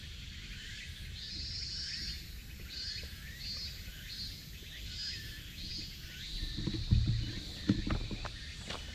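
Small birds chirping, with a high buzzy call repeating several times about every 0.7 s. From about two-thirds of the way in, low thumps and rumbles close to the microphone, loudest about two seconds before the end.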